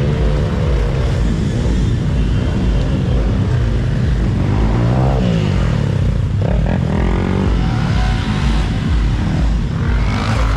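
Motorcycle engines running, with one engine revving up and back down about five seconds in.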